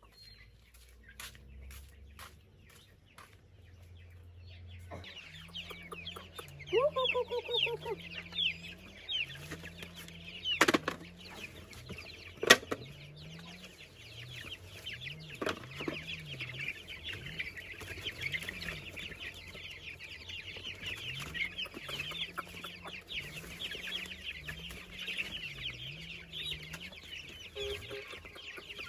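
Chickens clucking and calling, many at once, after a quieter first few seconds, with two sharp knocks a little before the middle.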